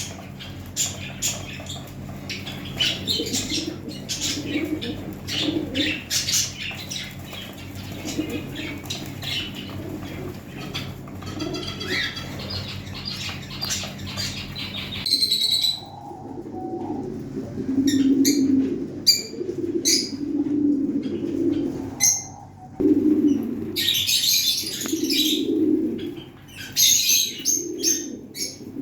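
Pigeons cooing and small birds chirping, with wing flaps. In the first half, busy high chirping runs over a steady low hum. After a sudden change about halfway, repeated low cooing takes over, with occasional chirps.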